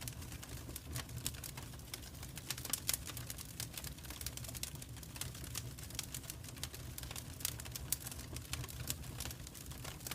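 Wood fire crackling in a fireplace: irregular sharp snaps and pops over a steady low rumble of the burning flames.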